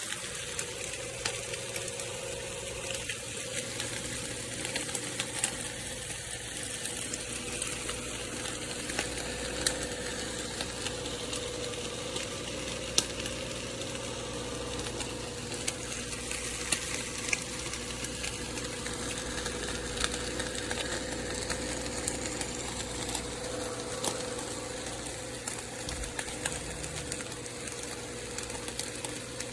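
Nespresso Vertuo Next coffee machine running a brew or cleaning cycle: a steady motor and pump hum with a constant mid-pitched tone, water hissing through it and scattered small clicks and rattles.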